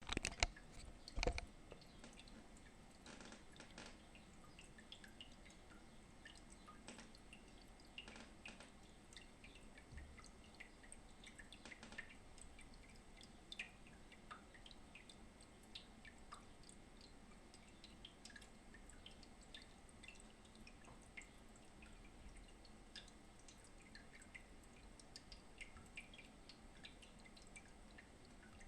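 Humidifier dripping faintly: scattered small water drips and ticks over a low steady hiss, with two louder knocks in the first second and a half.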